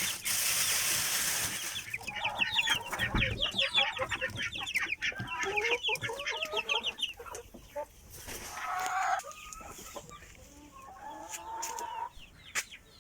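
Young Pushkin chickens peeping in a dense run of quick, high, falling chirps, followed by a few longer, lower clucking calls from the flock. A rustling noise comes first, for about two seconds.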